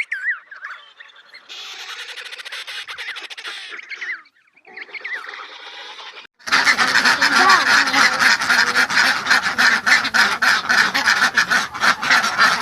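Penguins calling with honking, braying cries: first two quieter stretches of calls, then from about six and a half seconds in a loud, dense colony din full of sharp clicks.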